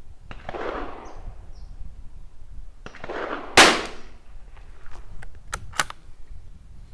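A single 22 LR rimfire shot from a Tikka T1x bolt-action rifle about three and a half seconds in, sharp and short. It is followed by a few small metallic clicks of the bolt being worked.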